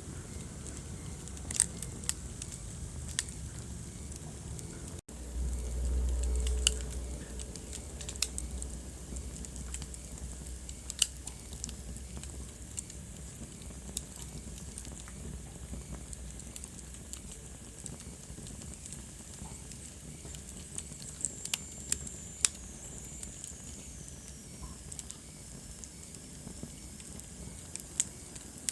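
Wood fire crackling in a fireplace: irregular sharp pops over a steady low rumble of the flames. The sound cuts out for an instant about five seconds in, and the low rumble is louder for the next couple of seconds. A faint high whistle slides down in pitch a little past two-thirds of the way through.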